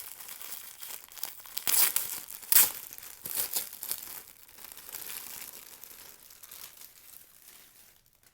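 Plastic wrapping being crinkled and pulled open by hand, in crackly rustles with two louder crackles about two and two and a half seconds in, dying away near the end.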